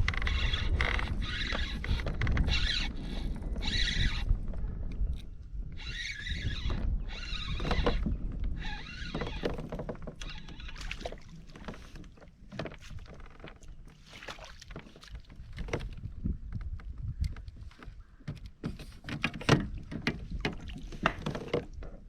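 Kayak paddle strokes splashing in the water in a steady rhythm, with wind rumbling on the microphone; later, scattered knocks and clicks.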